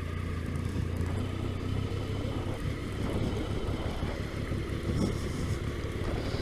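Triumph Tiger motorcycle running steadily at low road speed, its engine a constant low hum under a rush of wind and road noise.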